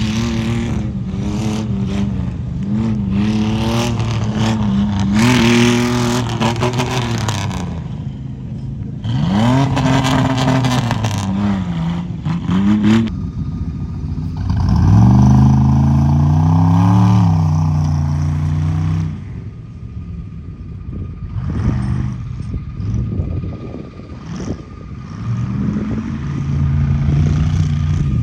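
Tuff truck engine revving hard, its pitch climbing and falling again and again, with the strongest rev-up about fifteen seconds in.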